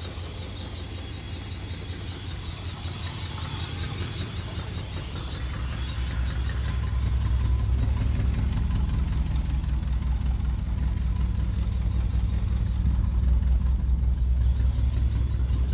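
1959 Ford Thunderbird's V8 engine idling steadily just after a cold start. The idle grows louder about six seconds in, then holds steady.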